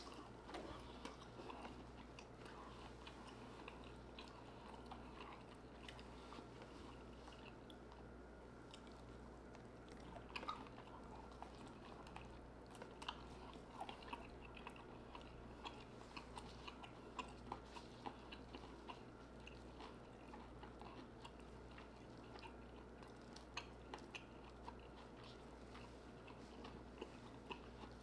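A person chewing and biting soft lobster meat close to the microphone: faint wet mouth clicks and smacks scattered throughout, a few louder, over a steady low hum.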